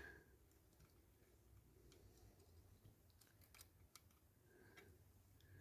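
Near silence with a scatter of faint, light clicks from small model-car parts being handled and fitted into a diecast body.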